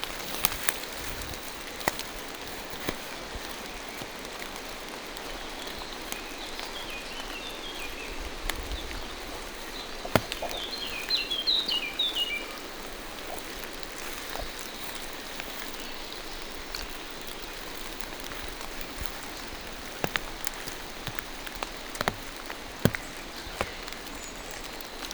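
Rain falling steadily through forest trees, a soft even hiss with scattered sharp drips and taps. A small bird calls twice in quick runs of short high chirps, about a third and half way through.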